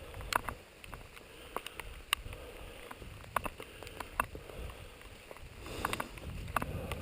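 Scattered raindrops ticking irregularly close to the microphone over a low rumble of wind, the rumble growing stronger near the end.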